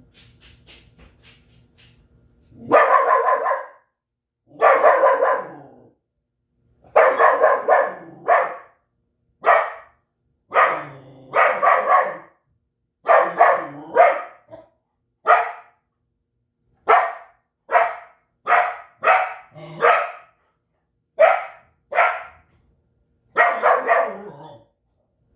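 A Belgian Malinois barking loudly and repeatedly, about twenty barks after a quiet start. The first few are long and drawn out, and the later ones are shorter and come faster.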